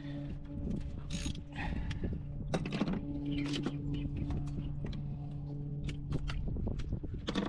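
Hand tools clicking and clinking against metal engine parts in an irregular run of short knocks, over a steady low hum.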